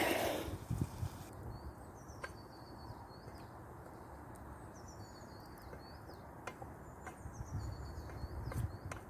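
Birds chirping over and over in short, high calls, with a few faint sharp clicks and a low rumble underneath.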